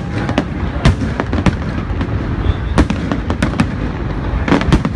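Aerial fireworks display: shells bursting in quick, irregular succession, several bangs a second at times, over a continuous low background of further distant bangs.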